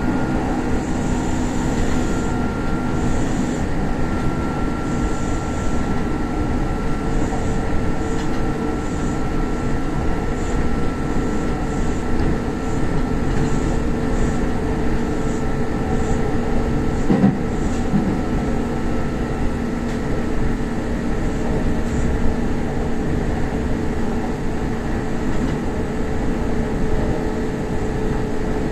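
Kintetsu express electric train running along the track, heard from inside the front car: a steady rail rumble with a motor whine that slowly falls a little in pitch.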